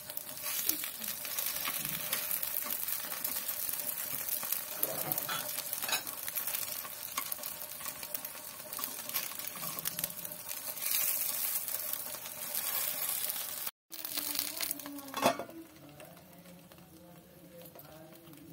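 Appe sizzling in hot oil in an appe pan, with light scrapes and taps of a metal utensil as the dumplings are turned over. A little past two-thirds of the way through there is a sharp metal clink as a steel lid goes on the pan, and the sizzle then goes on more faintly under the lid.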